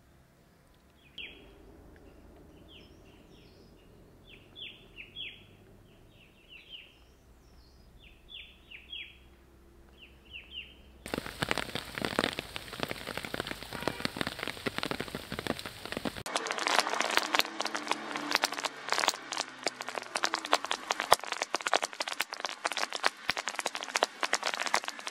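Small birds calling in clusters of short, quick, falling chirps over a quiet background for the first ten seconds or so. Then heavy rain starts abruptly, a dense patter full of sharp ticks, which grows louder and more crackly about five seconds later.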